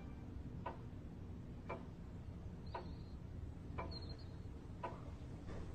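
Faint, steady ticking, one tick about every second, over a low background hum.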